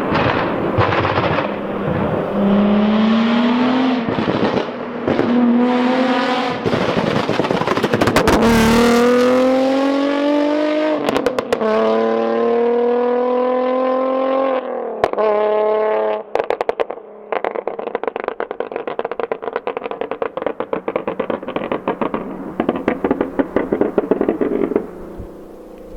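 Infiniti G35 coupe's 3.5-litre VQ35DE Rev-Up V6 through a loud Tomei single-exit 3-inch exhaust with test pipes, accelerating hard with the pitch climbing and dropping back at each gear change. About two-thirds of the way in it lifts off into a long run of rapid crackles and pops on the overrun.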